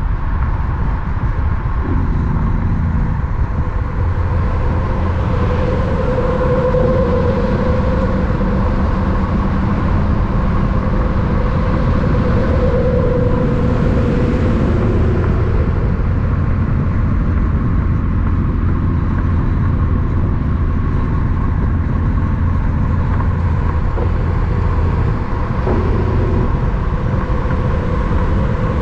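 Steady, loud rumble of road vehicle traffic or running trucks, with a steady hum over it.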